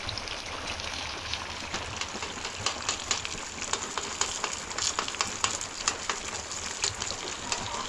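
Steady rain falling, with a hiss and many irregular sharp ticks of drops striking a nearby surface.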